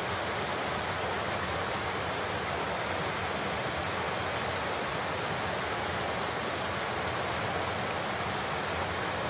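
Large waterfall: water falling and rushing in a steady, unbroken roar that stays constant throughout.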